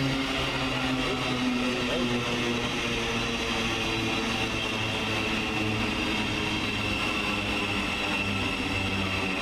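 Thameslink Class 700 electric train humming steadily, with a high, steady electrical whine over lower held tones.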